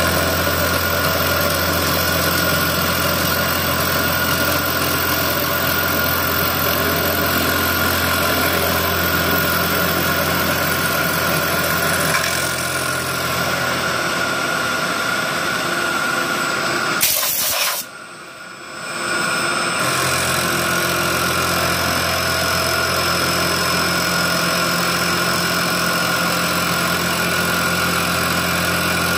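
CNC milling machine running steadily, a constant mechanical hum with several steady whining tones. Just past the middle it gives a short sharp noise, drops off for about two seconds, then runs on as before.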